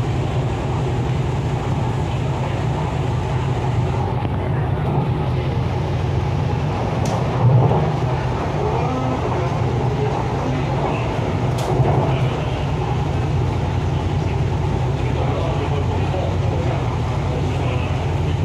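MTR East Rail line R-Train electric multiple unit running between stations, heard on board: a steady low hum over a rolling rumble. Two brief sharp clicks come about seven seconds in and again about four and a half seconds later.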